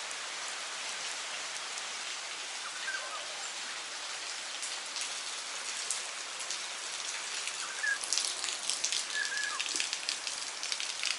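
Tropical rain falling steadily, an even hiss of drops that grows heavier and patters louder for the last few seconds.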